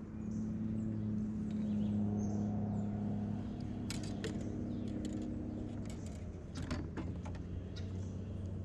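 A motor running steadily with a low hum that eases off about six seconds in, with scattered light clicks and knocks over it.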